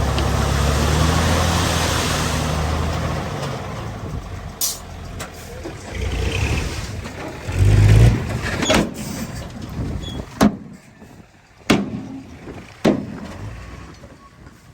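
Heavy diesel engine of earthmoving machinery running steadily, fading out after about three seconds. Then comes a loud low thud about eight seconds in, and a handful of sharp metallic knocks spaced a second or so apart.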